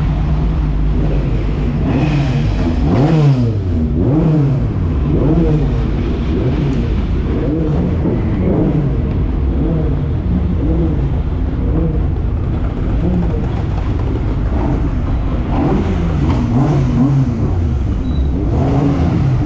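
Several racing pickup trucks' engines running and being revved as they drive in at low speed, their notes rising and falling repeatedly and overlapping.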